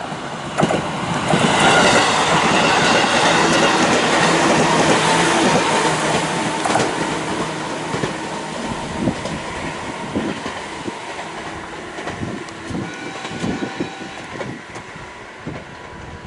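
A JR 211 series electric multiple unit passes close by while accelerating, its wheels clicking over the rail joints. The sound swells about a second in, is loudest for several seconds, then slowly fades as the train draws away.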